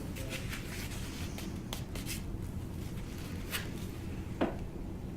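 Faint handling sounds: light clicks and rubbing with a few short taps, over a low steady room hum.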